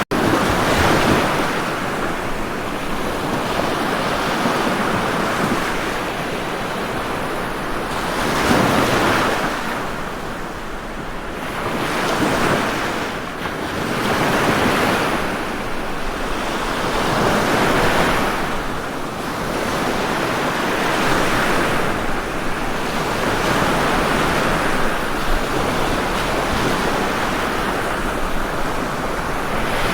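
Ocean waves breaking and washing ashore: a continuous rush of surf that swells and fades every few seconds.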